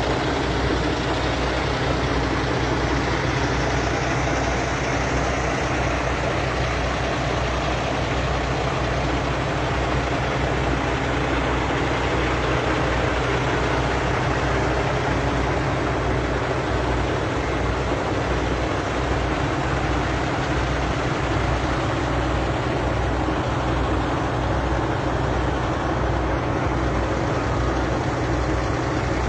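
A large vehicle engine idling steadily, a low, even drone with no change in speed.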